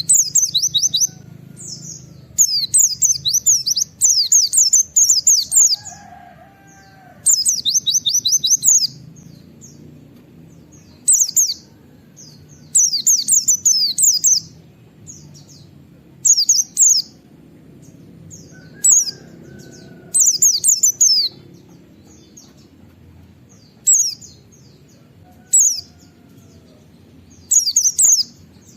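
A white-eye (pleci) singing its 'nembak' song: repeated bursts of rapid, high, quickly falling notes, each burst a second or two long with short pauses between, over a faint low background hum.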